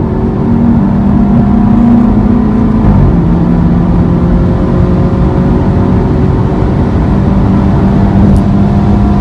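BMW 320i's B48 turbocharged four-cylinder with an Fi aftermarket exhaust, running steadily under way with a low exhaust drone. Its pitch steps up just under a second in, drops about three seconds in, then climbs slowly.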